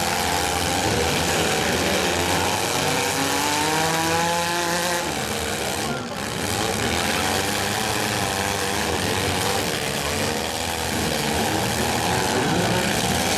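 Engines of several compact demolition derby cars running and revving together, a dense mix of engine tones rising and falling as the drivers rev.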